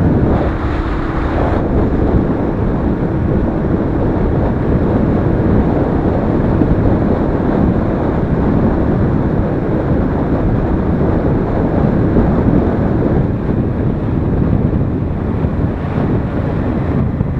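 Royal Enfield Interceptor 650's parallel-twin engine running under way, heard under heavy wind buffeting on the microphone. The noise is loud and steady.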